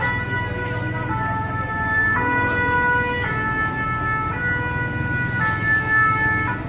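Emergency vehicle's two-tone siren, the French "pin-pon" type, stepping back and forth between a higher and a lower note about once a second. It stops near the end.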